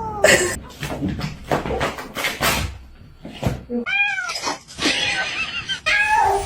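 Domestic cat meowing: one arched meow about four seconds in and another near the end. A run of clicks and knocks comes in the first few seconds.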